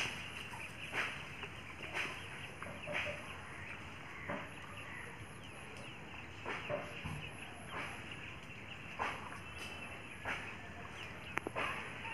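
Short bird calls repeated roughly once a second over a steady background hiss.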